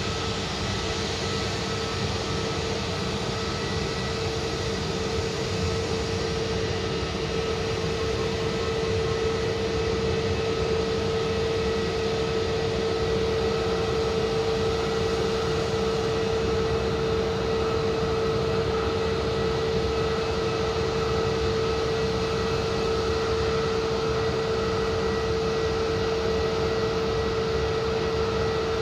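Jet airliner engines running at idle: a steady whine with fainter higher tones over a low rumble, growing a little louder about a third of the way in.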